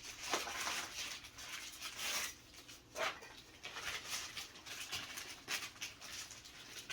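Packaging being handled and unwrapped, plastic wrap rustling and crinkling in irregular bursts.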